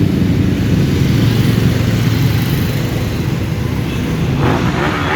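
Several motorcycle engines running together in a passing convoy, a steady low rumble.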